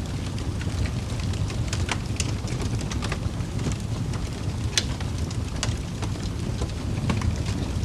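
Wood fire burning in a fireplace: a steady low rush of flame with irregular sharp crackles and pops from the burning logs, the loudest pop just under five seconds in.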